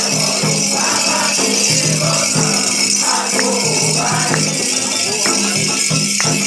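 Ritual percussion music: a shaker rattling steadily over a repeating drum beat.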